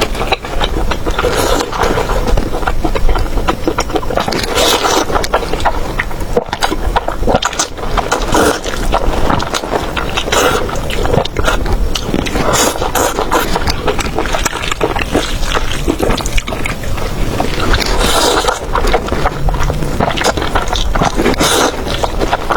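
Close-miked eating sounds: wet chewing and slurping, with many small sticky clicks and smacks coming irregularly throughout.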